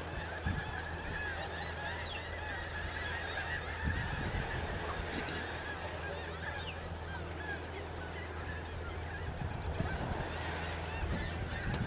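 Birds calling without a break in many short, overlapping chirps, over a steady low rumble.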